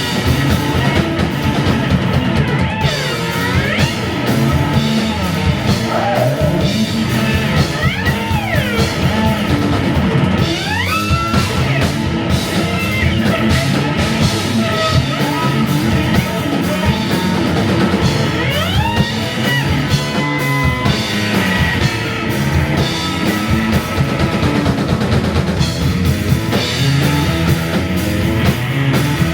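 Live psychedelic rock band playing: drum kit, bass and electric guitar, with high notes sliding up and down in pitch several times, with the electric violin in the lineup.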